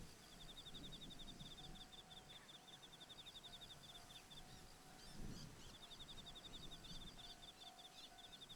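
Faint outdoor ambience: an insect trilling in fast, even pulses at a steady high pitch, with a low rumble of wind and a few short chirps near the middle.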